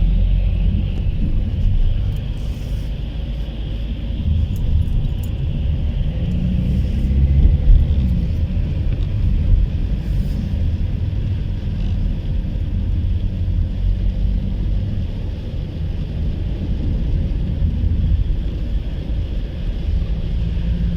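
Car interior road and engine noise while driving: a steady low rumble with tyre hiss.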